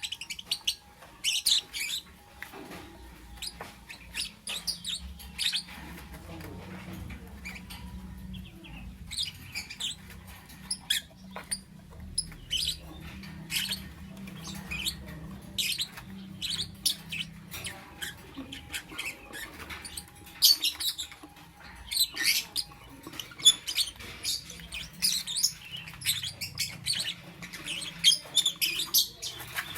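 Lovebird chirping: rapid, high-pitched squeaky chirps in irregular clusters, with a faint low hum underneath through the middle stretch.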